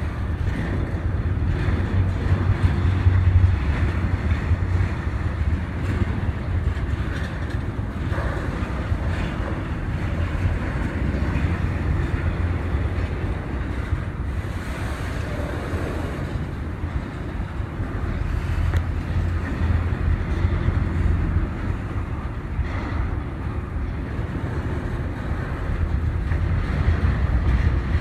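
Train passing with a steady low rumble that rises and falls slightly in strength.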